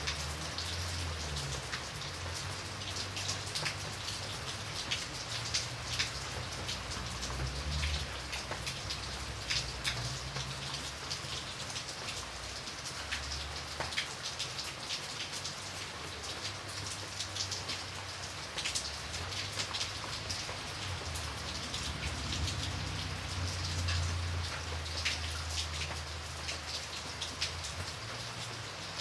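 Steady rain with many separate drops ticking against a window pane, over a low rumble that swells and fades.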